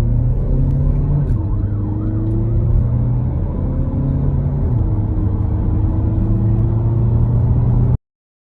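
Skoda Octavia Mk3 engine accelerating hard in a 0–100 km/h run. Its pitch climbs through each gear and drops back at gear changes about a second in and about five seconds in. The sound cuts off suddenly near the end.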